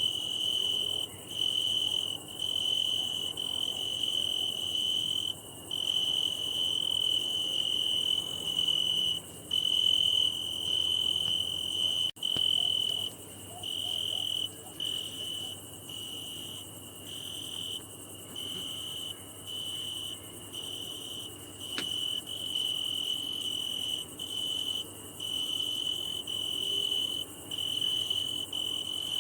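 A cricket singing, its forewings rubbed together to make a shrill, high-pitched trill that runs on for a second or several at a time, broken by brief pauses. Fainter, higher cricket song carries on behind it.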